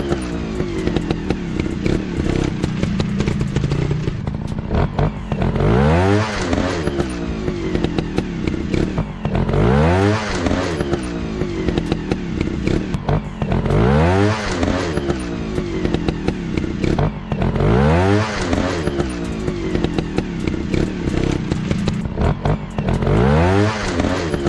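Dirt bike engines revving up and falling back again and again, about every four seconds, over a steady low running note.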